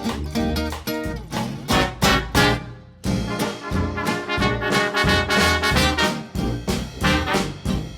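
Brass-led traditional jazz band music, trumpet and trombone over a swinging beat, with a brief drop about three seconds in.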